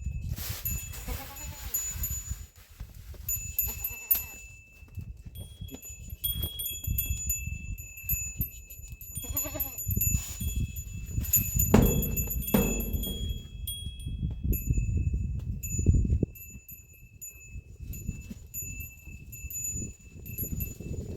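Goats bleating a few times, over a steady high ringing tone and a low rumble.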